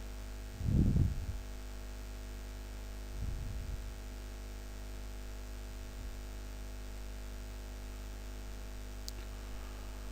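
Steady electrical mains hum with faint hiss in the recording, with a short low sound about a second in.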